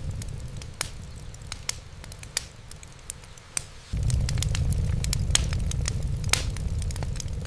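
Wood fire crackling, with irregular sharp pops and snaps over a low steady rumble. The rumble fades for a few seconds and comes back suddenly about four seconds in.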